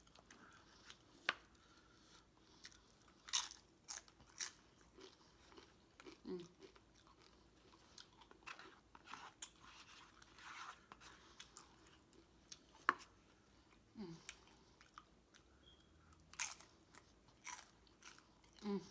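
A person chewing food close to the microphone, with faint, irregular crisp crunches and clicks scattered throughout.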